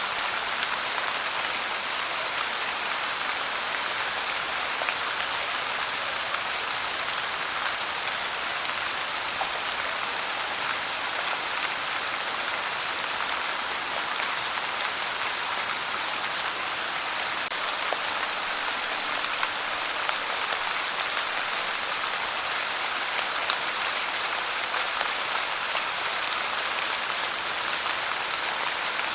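Steady rain falling and pattering on a surface, an even hiss with many small drop ticks and no thunder.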